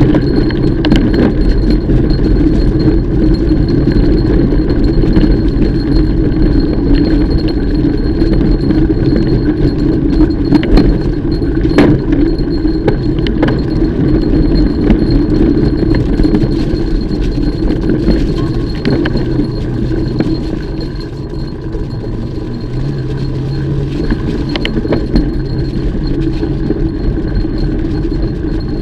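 Mountain bike being ridden on a trail: steady rumble of the tyres over the ground with rattling and clinking of the bike's parts, and sharp knocks now and then from bumps.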